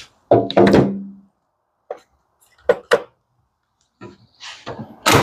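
A louder clatter with brief ringing just after the start, then a few separate short knocks and clicks, and a scraping clatter near the end: tools or parts being handled while working on the engine.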